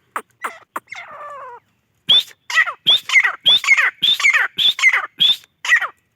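Grey francolin (teetar) calling. A few short clicks and a single falling note come first, then a fast run of about seven sharp, falling notes, roughly two a second.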